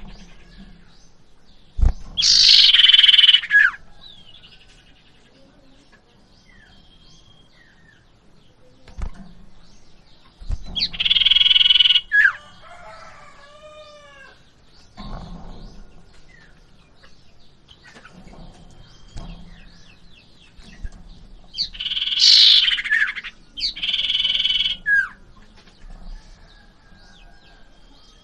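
Common iora calling: loud, harsh, buzzy calls of about a second each, four in all, with softer falling whistled notes between them. A few short low thumps are mixed in.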